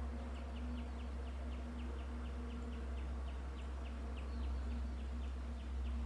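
A small bird repeating a short high chirp in a fast, even series, about four notes a second. A steady low hum runs underneath.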